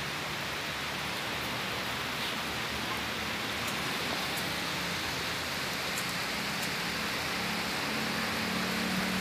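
Steady hiss of heavy rain falling, with a few faint ticks of drops. A low steady hum joins about two-thirds of the way through.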